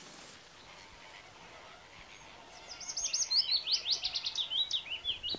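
Birds calling over faint outdoor ambience: about halfway in, a rapid run of high, sweeping chirps starts and keeps going.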